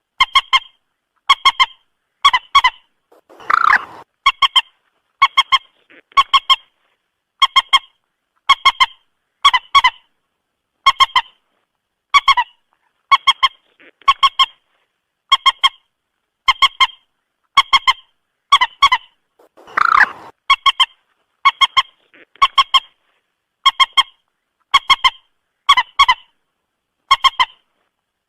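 Common moorhen calling over and over: short, clipped, honking notes in quick groups of two or three, repeated about every second. Two longer, harsher calls come about 3.5 s and 20 s in.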